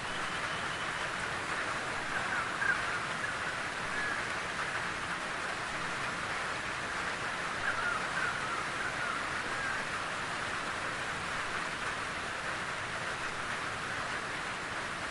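Steady rain falling in a forest, an even hiss. A bird calls briefly about two seconds in and again around eight seconds in.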